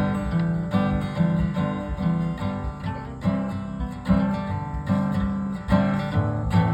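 Instrumental break of a live song: acoustic guitar strumming chords in a steady rhythm, with no singing.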